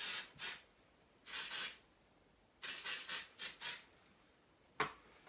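Aerosol can of Sam McKnight Easy Up Do hairspray sprayed in short bursts, about six quick hisses in three clusters. A single sharp click near the end.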